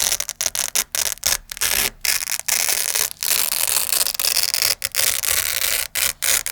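Hook-and-loop Velcro strips being pulled apart and pressed together close to the microphone: a run of crunchy, crackling rips of varying length, some short and some held for about a second, separated by brief pauses.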